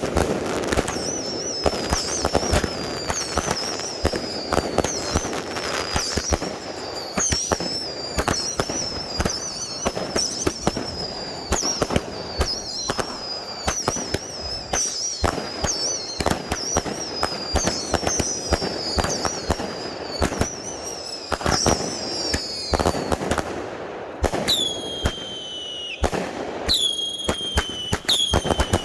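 Consumer firework cakes firing: a dense run of bangs and crackle mixed with many whistles that fall in pitch. Near the end a few louder, cleaner whistles stand out.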